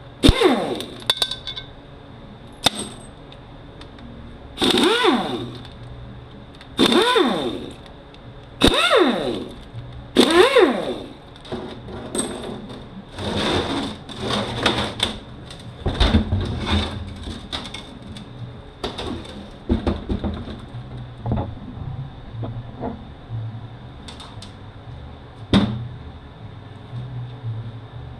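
Repeated short bursts of a small power tool's motor whirring, its pitch bending within each burst, as T30 Torx aluminium bolts are run out of the transmission case. Small clinks and knocks fall between the bursts.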